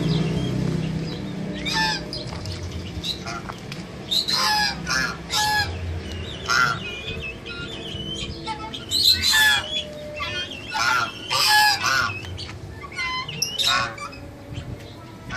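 Birds calling: many short calls in irregular runs, the loudest around the middle. A low hum fades out in the first second or two.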